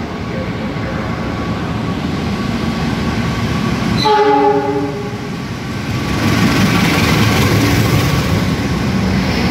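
Diesel-hauled express train running through a station without stopping. The rumble builds as it approaches, the locomotive gives one short horn blast about four seconds in, and then the coaches rush past with loud wheel-on-rail noise.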